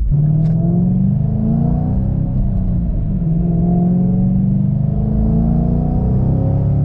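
Ford Shelby GT500's supercharged V8 pulling under acceleration, its engine note climbing steadily in pitch. About three seconds in the pitch dips briefly, then it climbs again.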